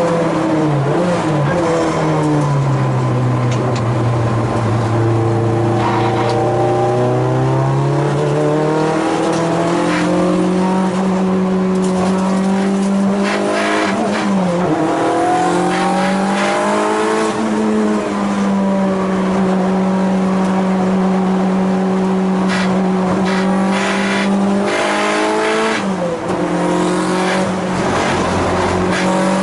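Race car's engine running hard on a circuit, loud and continuous. Its note drops in pitch near the start, climbs back up and holds high for a long stretch, then dips briefly twice more as the car slows for corners and accelerates out.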